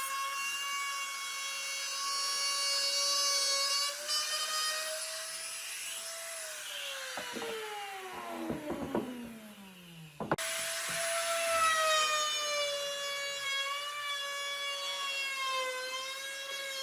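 Electric woodworking power tool's motor whining steadily at high speed. About six seconds in it runs down in pitch with a few knocks. It cuts out near ten seconds, then comes straight back at full speed.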